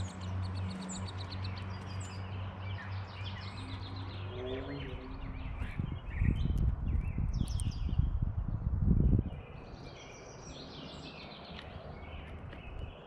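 Small birds chirping and calling around a feeder. A low steady hum runs under the chirps for the first few seconds and fades. From about six seconds in, a louder low rumble takes over and cuts off suddenly about three seconds later.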